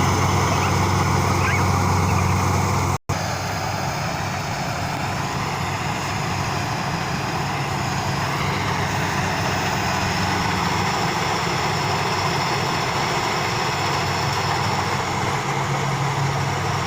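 Rice combine harvester engine running steadily, a continuous machine hum; the sound cuts out for an instant about three seconds in and resumes.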